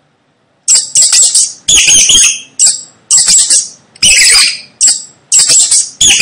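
Mouse squeaking: about six bursts of rapid, high-pitched chirping squeaks, starting about a second in.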